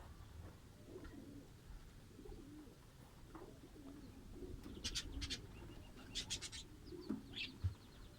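Fischer's lovebirds calling: short bursts of rapid, shrill chirps about five seconds in and again about six seconds in, then a single brief call near seven seconds.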